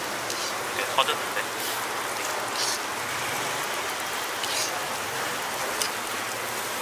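Hotteok frying in oil on a griddle: a steady sizzle, with a few light clicks and taps of utensils.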